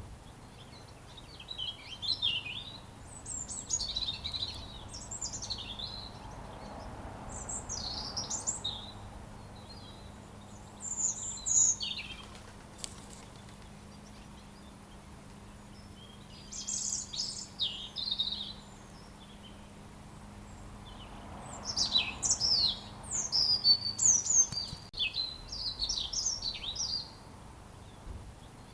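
A robin singing: bursts of high, quick, warbled phrases separated by pauses of a few seconds, the busiest stretch coming near the end.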